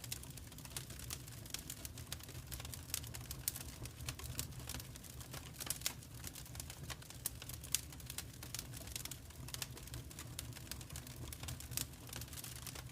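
Fireplace fire crackling: quick irregular snaps and pops over a steady low rumble.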